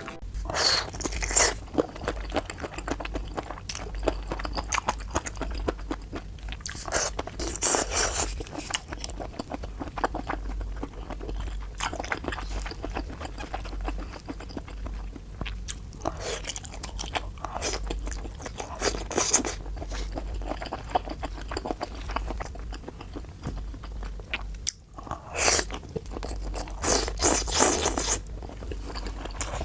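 Close-miked chewing and crunching of food, with loud crunchy bites every few seconds between quieter stretches of wet chewing.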